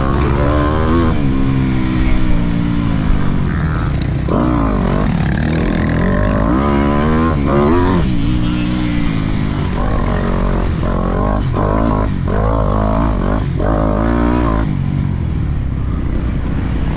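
Motocross bike engine revving hard and backing off again and again as the rider accelerates, shifts and brakes around the track, over a steady low rumble of wind on the microphone.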